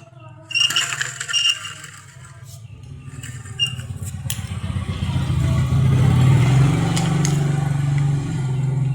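A few light metallic clinks, then a low, steady motor hum that builds up over several seconds and holds.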